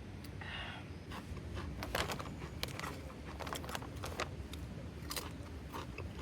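Irregular small clicks and knocks of objects being handled, with a short scrape or zip about half a second in.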